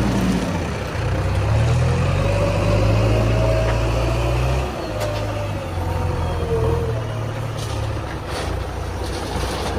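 Heavy diesel engine of earthmoving machinery running steadily, its note stepping down about five seconds in, with a faint wavering whine over it and a few light clicks near the end.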